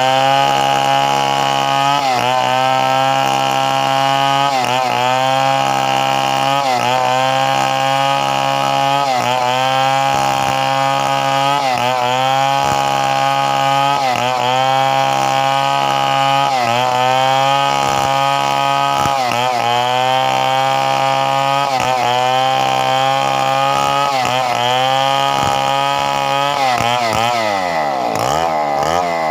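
Chainsaw running at high revs as it cuts wood. The engine pitch sags briefly about every two seconds as the chain bites. Near the end the pitch drops steeply as the throttle comes off.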